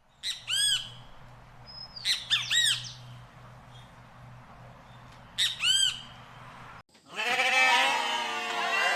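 A bird squawking in three short bouts of harsh calls, each call rising and then falling. About seven seconds in, this gives way abruptly to a louder chorus of many overlapping animal calls that fall in pitch.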